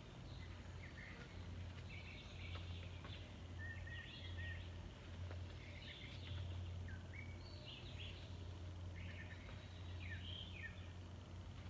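Songbirds chirping, short calls every second or so, over a steady low hum.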